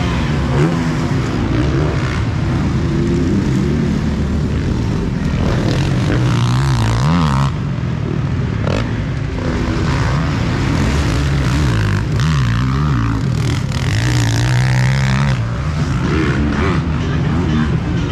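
Motocross motorcycles racing on the track, their engines revving up and down in pitch.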